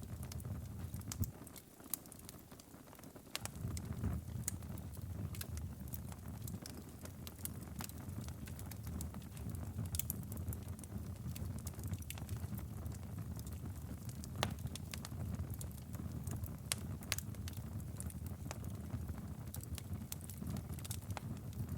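Wood fire crackling in a fireplace: a steady low rumble of burning logs with frequent sharp pops and snaps. The rumble briefly drops away about two seconds in.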